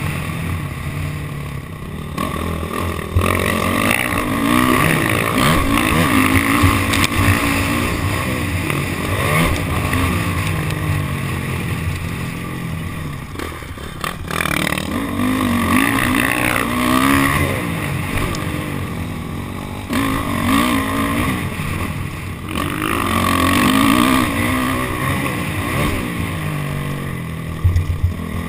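Honda CRF450R dirt bike's single-cylinder four-stroke engine revving up and down hard as it is ridden around a motocross track, the pitch rising and falling with throttle and gear changes. The throttle is briefly closed about halfway through, then opened again.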